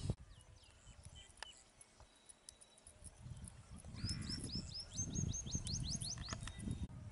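A songbird calling a quick run of about a dozen upward-sweeping chirps, starting a little past halfway, over a low outdoor rumble.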